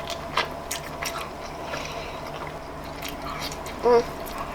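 Close-miked mouth sounds of someone eating seafood: wet chewing with scattered sharp smacking clicks, and a short hummed voice sound near the end.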